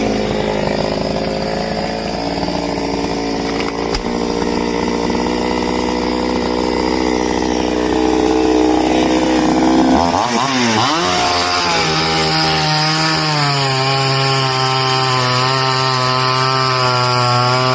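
Chainsaw running. Its engine speed drops and climbs back about ten seconds in, then it holds a steady high speed.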